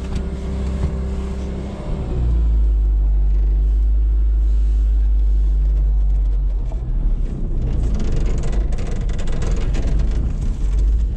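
Car engine idling, then taking up load about two seconds in as the car pulls away, running with a loud deep rumble. From about six seconds in, rougher road and tyre noise with scattered knocks joins it. The car is still cold from the frost, and the gearbox is frozen stiff.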